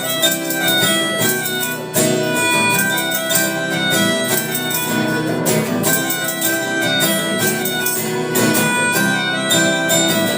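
A rock band playing an instrumental passage of a song, with no singing.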